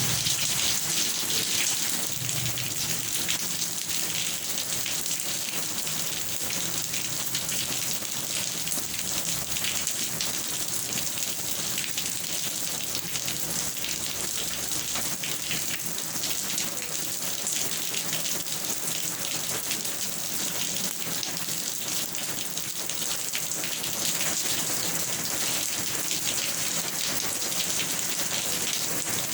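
Steady, heavy rain falling on a surface, a dense even hiss of many close drops.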